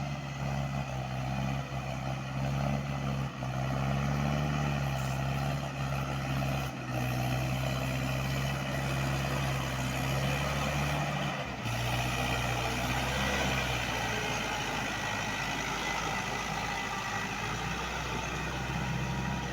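Tractor diesel engine running steadily at high revs, about 2000 rpm, pulling through a muddy field. About twelve seconds in, the low engine note shifts and stays lower for the rest of the stretch.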